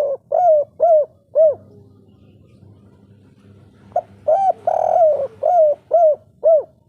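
Spotted dove (tekukur, derkuku) singing its 'kuk 3' cooing song: a phrase ends with three short coos, then after a pause of about two seconds a full phrase begins with a brief note and a drawn-out coo and ends in three short, clipped coos.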